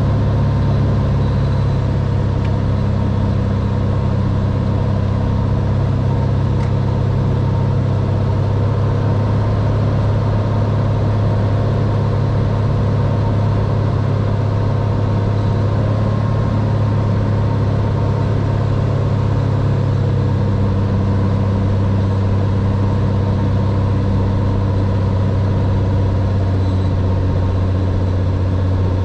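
Cessna 182R's six-cylinder Continental O-470 engine and propeller running steadily, heard from inside the cockpit as a loud, even drone. About twenty seconds in, its note shifts slightly lower.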